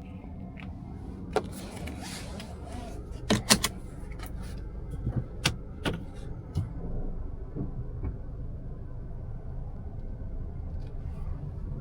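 Steady low rumble inside a Mazda CX-5's cabin, with a handful of sharp clicks and knocks, the loudest a close pair about three and a half seconds in.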